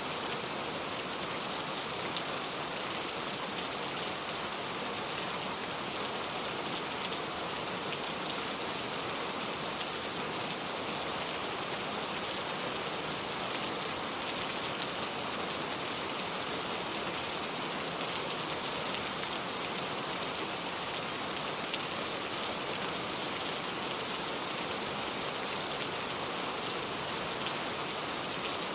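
Heavy rain pouring steadily, with a dense hiss of falling drops and no thunder.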